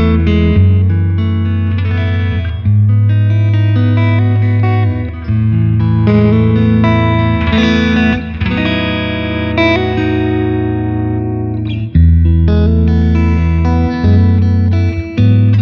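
1993 Mexican-made Squier Stratocaster electric guitar played through an amplifier as a sound test: chords ringing out and changing every two to three seconds, with a short break about twelve seconds in.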